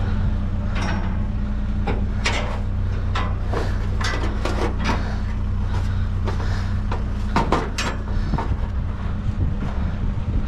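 Scrap and junk being pulled around in a dumpster: a run of irregular knocks, clanks and rustles, over the steady low hum of an idling vehicle engine.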